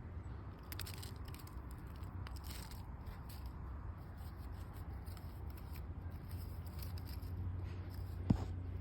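Dry sieved chicken manure being scooped and sprinkled into a plant pot: scattered light crisp rustling and gritty ticks over a steady low hum, with one sharp click near the end.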